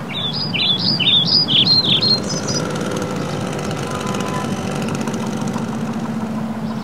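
A bird singing a quick run of chirping notes for about the first two and a half seconds, over a steady low hum like an idling engine that carries on after the song stops.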